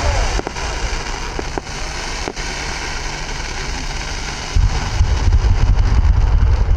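Aerial fireworks crackling, with scattered sharp pops. A heavy low rumble of bursts swells in about four and a half seconds in.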